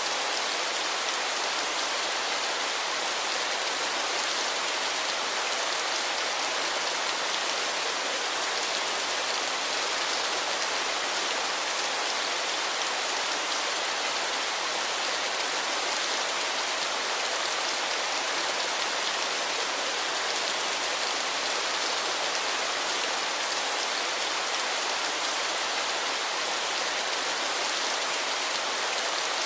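Waterfall: a steady, hissing rush of falling water that starts abruptly and holds at one even level.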